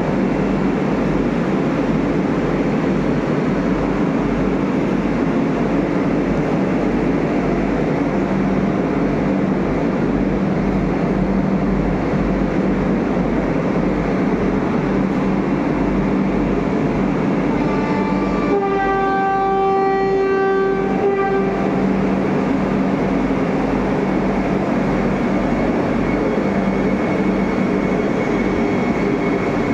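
Vande Bharat electric train running close by on the platform line, a steady loud rumble and hum. About two-thirds of the way through, a horn sounds once, a steady tone held for about three seconds.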